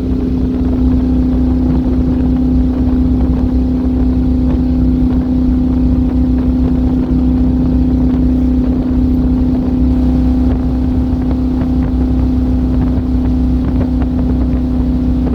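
C3 Corvette's V8 running at a steady cruise with the top down, the engine note holding one even pitch throughout, with wind noise on the microphone.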